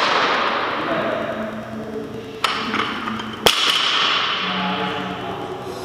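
Barbell loaded with bumper plates dropped onto the lifting platform after a snatch: a heavy thud at the start with the plates rattling as it settles, then two sharper knocks about two and a half and three and a half seconds in.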